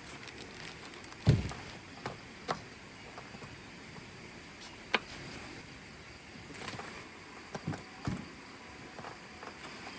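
A scattering of sharp knocks and clicks, the loudest a low thud about a second in, over a steady background hiss.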